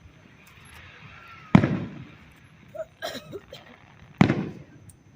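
Aerial fireworks shells bursting: two loud booms about two and a half seconds apart, each trailing off in a rumbling echo, with a few softer pops between them.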